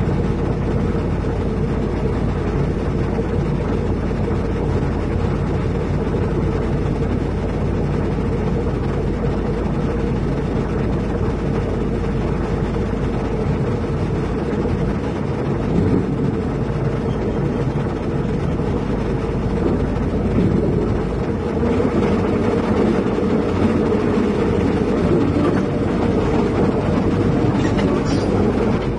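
Heavy diesel engine of construction equipment or a truck running steadily under load, with a deep hum, a little busier in the second half.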